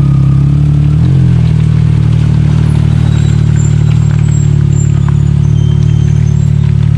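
Side-by-side UTV engine idling steadily close by, with a brief blip in pitch about a second in.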